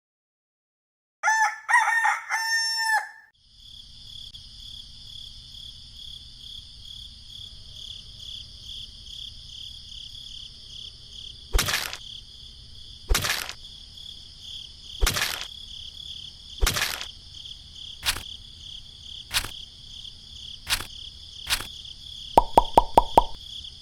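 A rooster crows once, then a steady high-pitched drone sets in. Sharp knocks come about every second and a half in the second half, and a quick run of clicks follows near the end.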